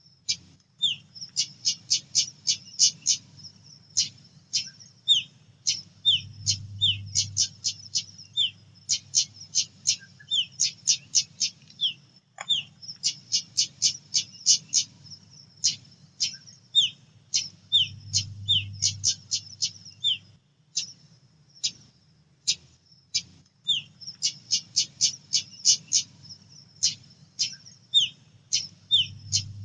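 Female pied bushchat calling: fast runs of short, high chirps broken by short falling notes, repeated in bursts with brief pauses. A faint low hum runs underneath.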